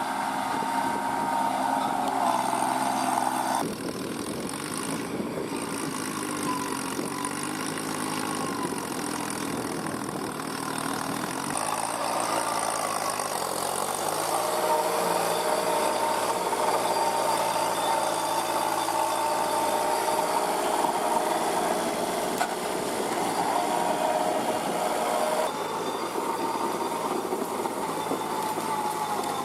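Kubota NeoStar B2441 mini tractor's three-cylinder diesel engine running, its pitch dipping and rising a few times as load or throttle changes. The sound shifts abruptly about 4, 11 and 25 seconds in.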